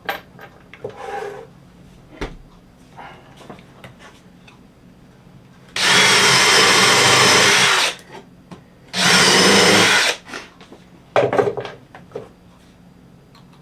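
Power drill driving 2-inch screws into pine 2x lumber: two steady runs of the motor, about two seconds and then just over a second, with light knocks of handling between.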